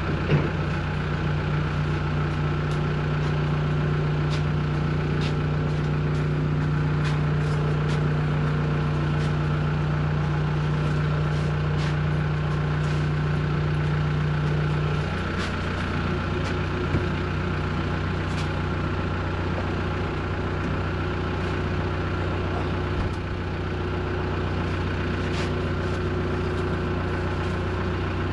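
An engine idling steadily, with scattered light clicks and knocks over it; one of its low tones drops away about halfway through.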